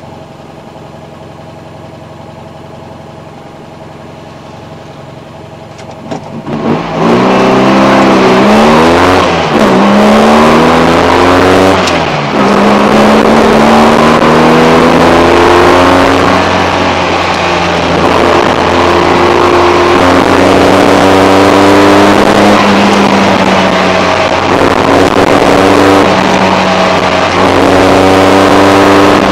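The tuned two-cylinder engine of a Fiat 126, heard from inside the car. It idles steadily for about six seconds, then revs hard at the launch and climbs through the gears, dropping in pitch at each shift. After that it keeps rising and falling every few seconds as the driver accelerates and lifts between the slalom gates.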